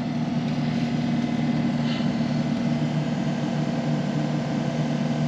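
Dump truck's diesel engine running steadily on the road, a constant low hum with road noise.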